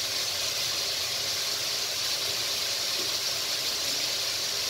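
Sliced vegetables sizzling steadily in hot oil in a large skillet as they are sautéed.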